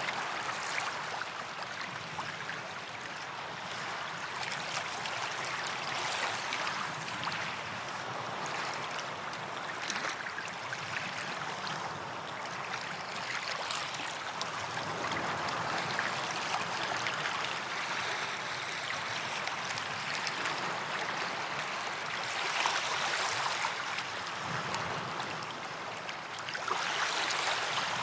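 Small sea waves washing up on a sandy beach: a steady wash of surf that swells a few times as waves break, most strongly a little past the middle and again near the end.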